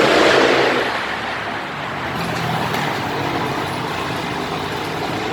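Motocross bike engines running, louder for about the first second and then settling to a steadier drone.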